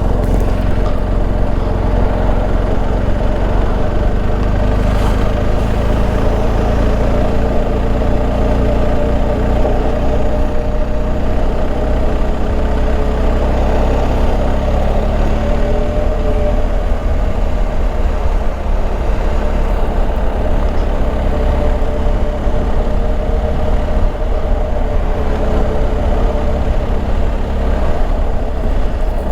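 BMW R1250 GS Adventure's boxer-twin engine running steadily while the motorcycle is ridden, with a strong low rumble under the engine note. The pitch shifts slightly about halfway through.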